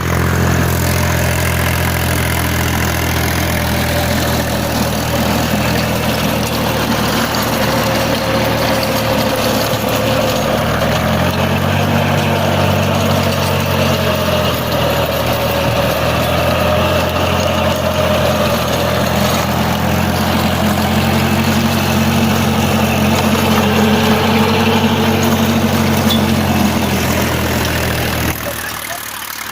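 Force Orchard tractor's diesel engine running steadily while driving a mini rotavator. Its pitch steps up a little about a third of the way in, and the sound drops off slightly near the end.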